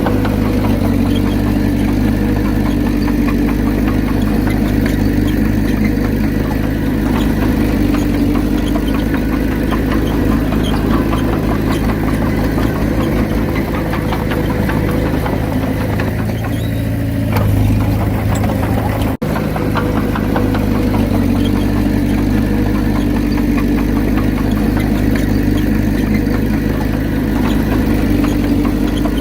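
Komatsu D31P bulldozer's diesel engine running steadily with a low, even drone. The sound cuts out for an instant about nineteen seconds in.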